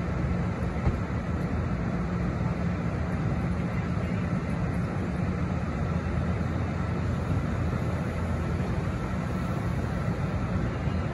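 Amtrak bilevel passenger train standing at the platform, giving off a steady low rumble and hum from its idling engine and on-board equipment, with a faint steady high tone above it.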